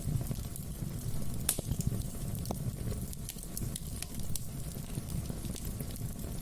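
Wood fire in a fireplace crackling, with scattered sharp pops over a steady low rumble of the flames; the loudest pop comes about one and a half seconds in.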